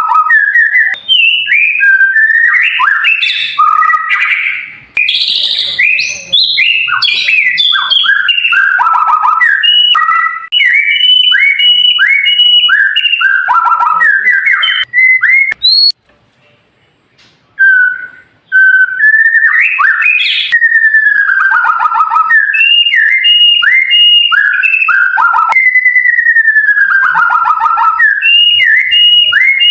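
White-rumped shama singing: a fast run of loud, clear whistled phrases, many notes sliding down in pitch and others repeated quickly on one pitch. The song breaks off for about two seconds just past the middle, then resumes.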